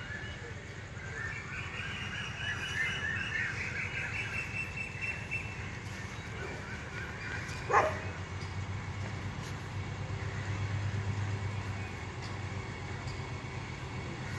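Electric train approaching slowly with a low steady hum that grows louder about two-thirds of the way through. High chirping runs for the first several seconds, and one short, sharp rising squeak comes about eight seconds in, the loudest sound of all.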